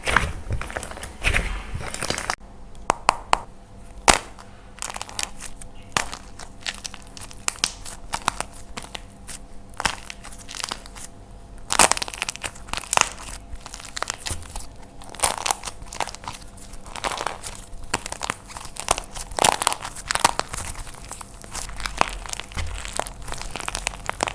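Dried plaster clay being crushed and broken apart by hand: a long run of crunchy cracks, snaps and crackles at an irregular pace, some single sharp pops standing out.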